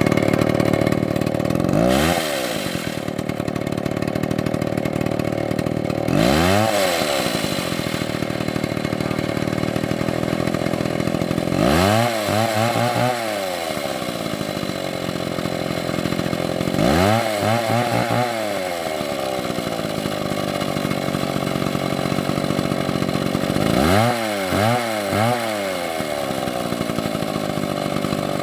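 Large MS720 chainsaw running hard, its engine note steady with five brief rises and falls in pitch as the revs change.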